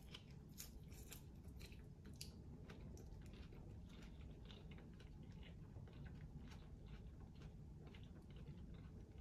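Faint chewing of a mouthful of chicken salad with lettuce, egg, chicken and bacon: many small crisp clicks, most of them in the first couple of seconds.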